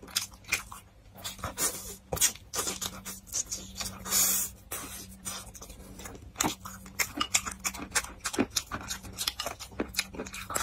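Close-miked eating sounds: chewing, lip smacks and wet mouth clicks while eating braised pork with rice, in quick irregular bursts, with chopsticks clicking against a porcelain rice bowl. A short loud breathy rush about four seconds in, over a faint steady hum.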